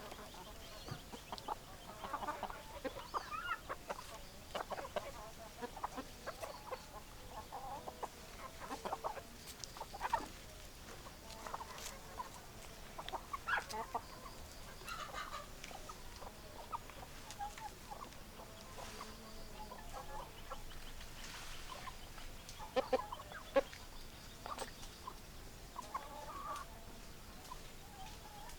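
Hens clucking: a string of short, irregular clucks and calls from several chickens.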